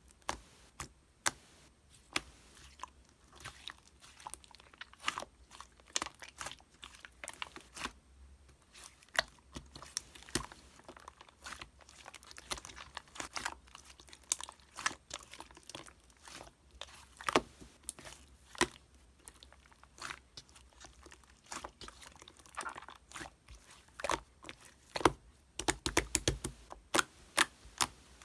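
Two-layer slime, a clear layer with a white one, squished and pressed by hand, giving irregular sticky clicks, pops and crackles that grow busier and louder near the end.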